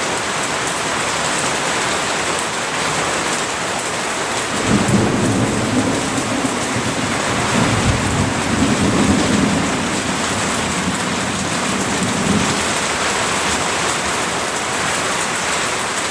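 Heavy rain pouring down steadily, with a long low rumble of thunder from about four seconds in until about twelve seconds in.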